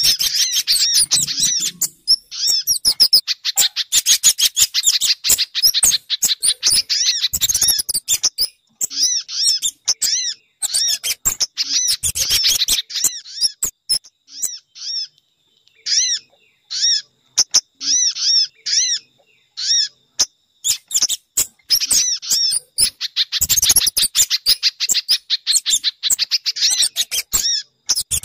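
Bird-lure recording of small forest birds, a mix of sunbird and spiderhunter calls. Dense runs of rapid, high chirps alternate with series of short arched notes repeated about once a second, thinning out midway and then packing together again.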